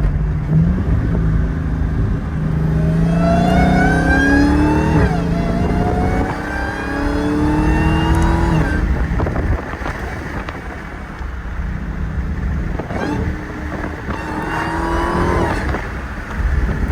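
Car engine accelerating hard under load, its pitch climbing and then dropping back at each upshift, twice in a row. It eases off for a few seconds, then climbs once more near the end.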